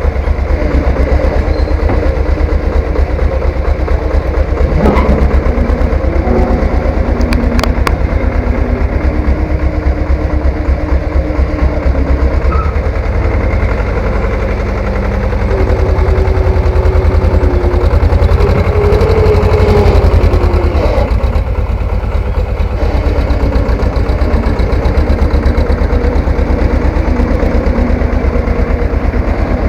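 Three-wheeled farm tractor's engine running with a fast, even low pulse, getting louder for a few seconds past the middle.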